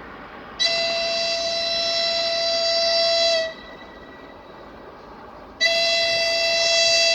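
TEM18DM diesel shunting locomotive's horn sounding two long blasts of about three seconds each, with a few seconds' gap between them, over a steady background noise.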